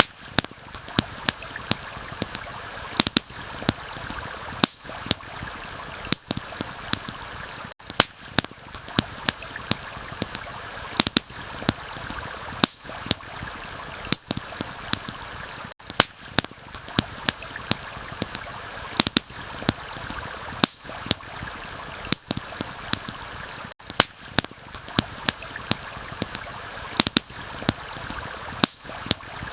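Campfire crackling, with sharp pops of varying loudness several times a second, over the steady rush of a flowing stream.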